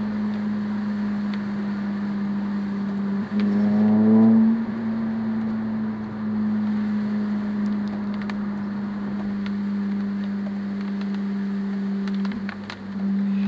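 Car engine heard from inside the cabin, running steadily under way; about three seconds in it drops briefly and then revs up, with two more brief dips near the end. Light ticks of rain on the windscreen sound over it.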